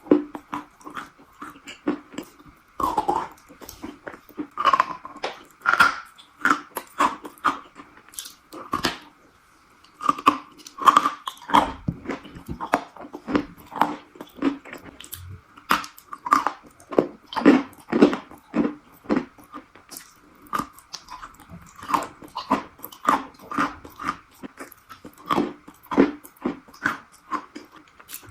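Close-up crunchy chewing: many quick, irregular crunches and bites of something brittle, with a short pause about ten seconds in.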